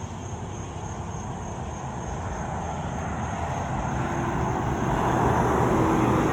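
Highway traffic: a vehicle approaching and passing close by, its engine and tyre noise growing steadily louder toward the end.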